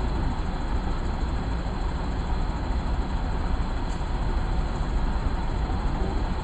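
Safari vehicle driving along a park track, a steady low rumble of engine and road noise.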